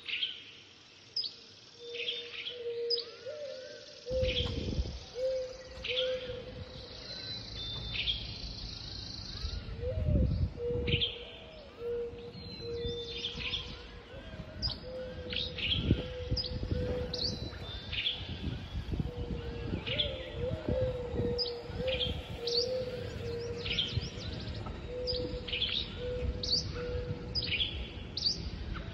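Birds singing: short, sharp chirps that sweep steeply down in pitch in quick succession, over a lower held whistling note that comes and goes. From about four seconds in, light wind rumbles on the microphone in gusts.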